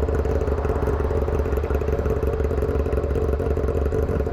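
Motorcycle engine running steadily while riding, with its exhaust tip missing.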